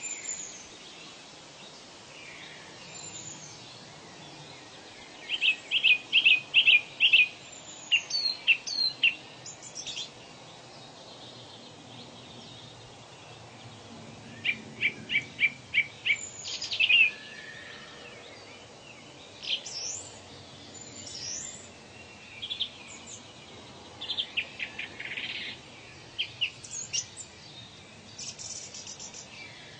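Birds singing over a steady background hiss. Bursts of five to seven quick, evenly spaced notes come every few seconds, with high down-slurred whistles in between.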